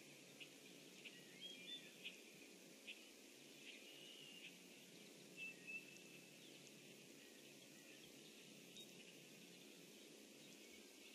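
Faint wild bird calls: scattered short chirps and a brief held whistle, mostly in the first half, over a low steady hiss of outdoor background noise.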